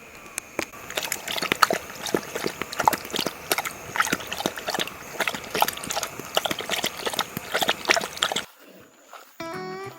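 A large dog eating noisily, with quick wet smacking and licking clicks, for about eight seconds. It cuts off, and gentle music begins just before the end.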